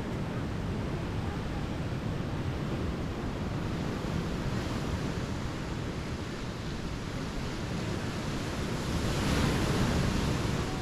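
Ocean waves washing onto a beach, with wind rumble on the microphone. A wave builds louder about nine seconds in.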